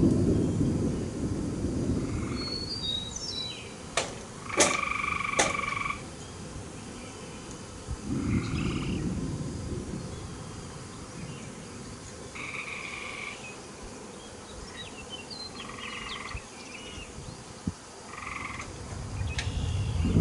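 Frogs calling in short pitched trills, each about a second long, repeating every few seconds over a wet outdoor background. Thunder rumbles low at the start, again about eight seconds in, and at the end. A few sharp clicks come around four to five seconds in.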